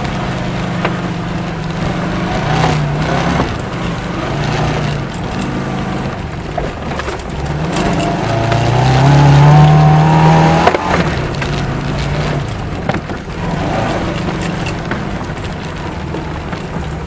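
Saab 96's Ford V4 engine heard from inside the car, pulling hard up a rough trials hill. The revs rise and fall with the throttle and peak about ten seconds in, with knocks and clatter from the car bouncing over the rutted track.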